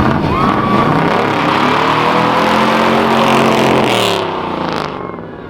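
A car's engine revving hard during a burnout, its revs climbing and held high, then dropping about four seconds in as the driver lets off.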